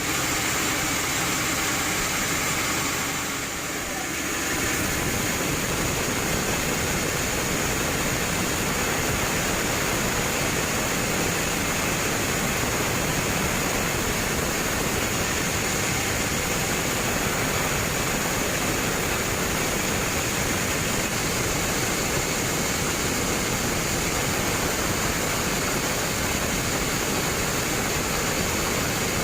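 Sawmill bandsaw running, a steady, loud, even noise with a brief slight drop about three to four seconds in.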